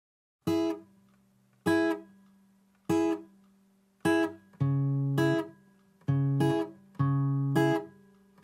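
Acoustic guitar intro of a song: four single strummed chords about a second apart, each left to ring out, then a steady strumming rhythm from about halfway.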